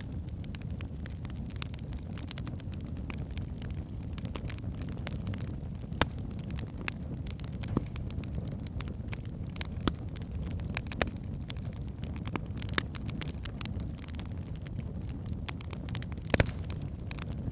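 Wood fire burning in a fireplace: a steady low rumble of flames with frequent crackles and sharp pops from the burning logs, a few louder pops scattered through.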